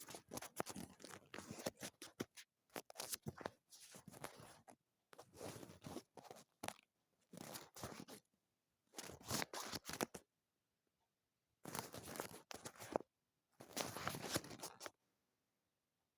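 Paper being handled and folded close to the microphone: crisp crinkling and rustling in short bursts about a second long, with brief pauses between them.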